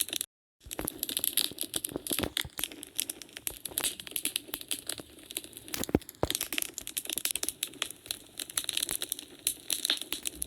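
Wood fire crackling in a fireplace: dense, irregular snaps and pops over a soft hiss, with one louder pop about six seconds in. The sound cuts out completely for about half a second near the start.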